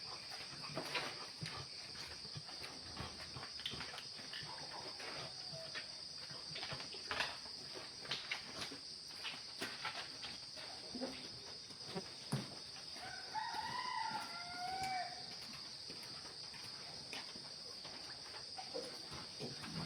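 A rooster crowing once, a call of about two seconds past the middle, over steady high insect chirring and scattered short clicks and knocks.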